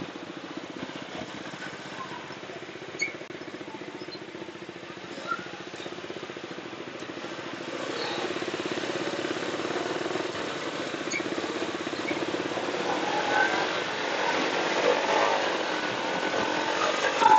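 Motorcycle engine running steadily while riding in traffic, louder from about eight seconds in as the bike picks up revs, with other traffic noise mixing in near the end.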